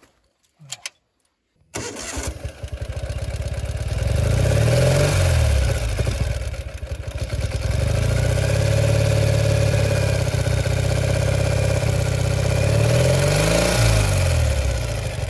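Ural sidecar motorcycle's flat-twin engine starting after standing unused for two weeks: it catches about two seconds in, then runs, revved up and back down twice, with steady running in between.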